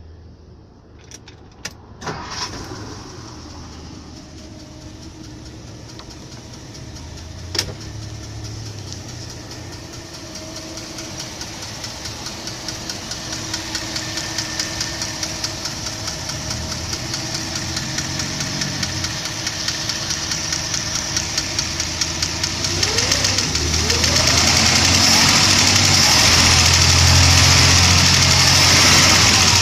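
1959 Ford V8 with a freshly repaired two-barrel carburetor starting about two seconds in, then idling with an even pulse. A little over twenty seconds in, the engine speeds up and runs louder as the throttle is worked at the carburetor.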